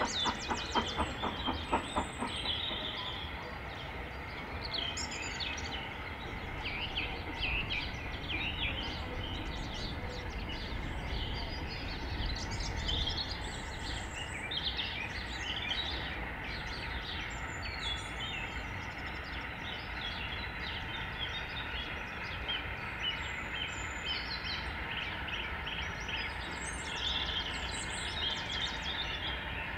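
Birds chirping and singing with many short, high calls over a steady low rumble of distant train and station noise. About the first two seconds hold a train's rhythmic clatter, which then fades out.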